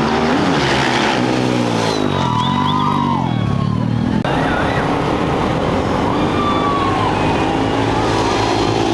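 Off-road race motorcycle engines revving hard and pulling away, their pitch rising and falling with each rev and gear change, with higher wavering tones over the top.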